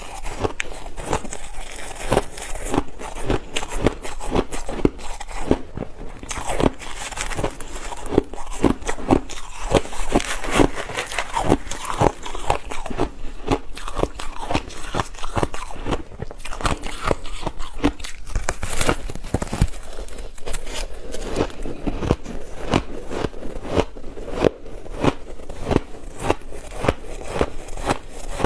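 A person biting and chewing ice: a dense, unbroken run of sharp crunches and crackles, several a second.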